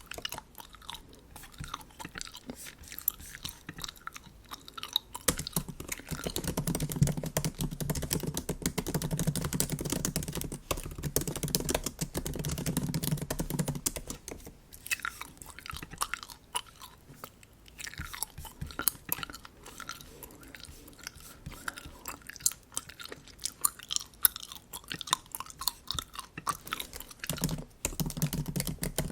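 Bubble gum being chewed close to the microphone: a run of quick small clicks, busiest from about six to fourteen seconds in and again near the end.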